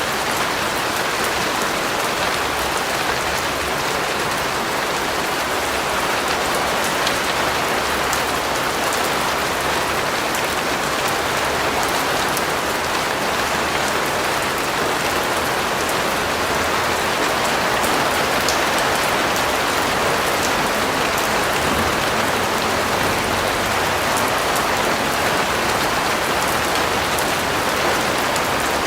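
Steady rain falling on a surface, an even hiss of many drops with fine patter, without letup.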